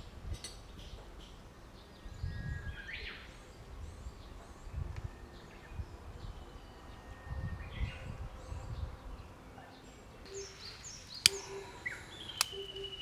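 Birds chirping now and then over outdoor ambience, with a few swells of low rumble and a couple of sharp clicks near the end.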